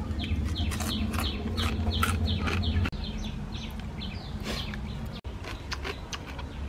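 A bird's short falling chirps repeated about three times a second, fading after about three seconds, over scattered sharp clicks of someone chewing grilled crab. A low steady hum drops out about three seconds in.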